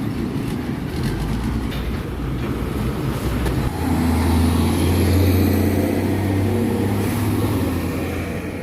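Road traffic at the roadside, with a heavy truck's diesel engine coming in strongly about halfway through, its low steady note slowly fading toward the end as it goes by.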